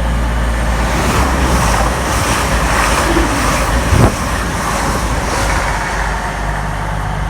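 Class 222 Meridian diesel multiple unit passing through the station: a loud, steady rush of engine and wheel-on-rail noise, with a sharp knock about four seconds in.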